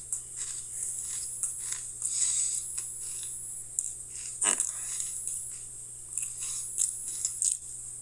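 Someone crunching and chewing Pringles potato crisps, in irregular crisp crackles, with one brief falling squeak about four and a half seconds in. A steady low hum runs underneath.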